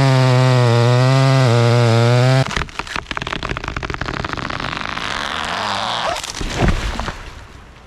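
Large chainsaw running at full throttle, stopping abruptly about two and a half seconds in. The crackling and rushing of a tall fir tree falling through its branches follows, with a crash as it hits the ground about six and a half seconds in.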